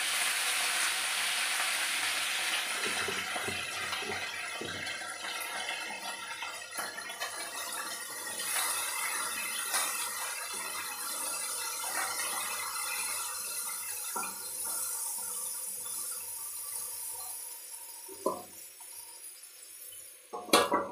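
Potatoes and cauliflower frying in a metal kadai: a steady sizzle that fades after a few seconds, with a wooden spatula scraping and stirring against the pan. Near the end, a metal plate set on the kadai as a lid clanks a few times, the loudest sound here.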